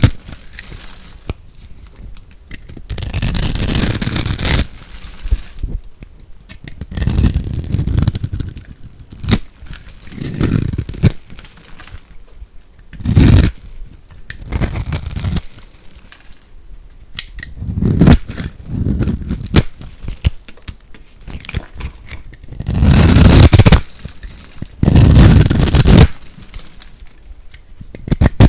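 Soap being scraped and crunched, about a dozen separate strokes of a second or two each with short pauses between.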